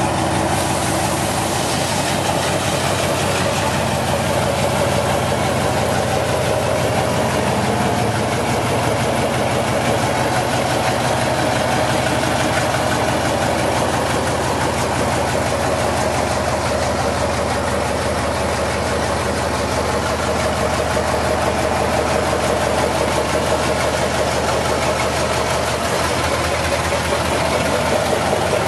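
1993 Hino dump truck's diesel engine idling steadily.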